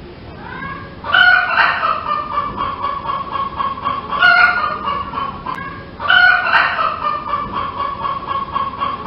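Chicken calling: three long calls about two to three seconds apart, each opening sharply and trailing off in a drawn-out, slightly falling tone.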